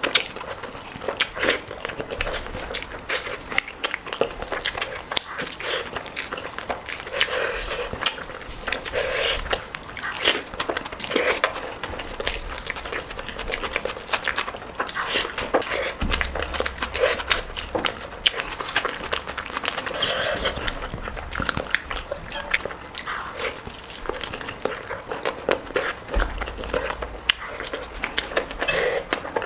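A person eating close to the microphone: wet chewing with frequent lip smacks and mouth clicks, irregular and continuous.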